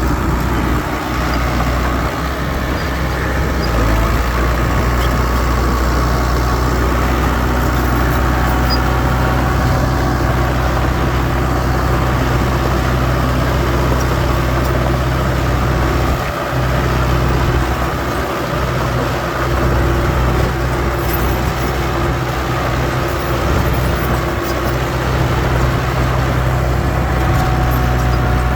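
Heavy diesel machinery engine, truck or bulldozer, running steadily with a deep, even hum.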